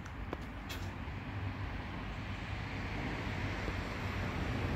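Rumble of an approaching train, still some way off, slowly growing louder.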